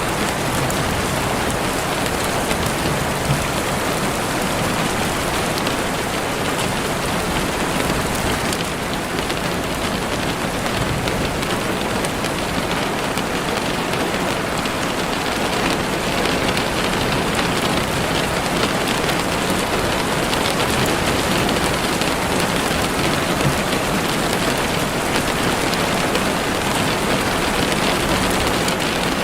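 Heavy rain falling steadily on leaves and the forest floor: a dense, even wash of raindrops.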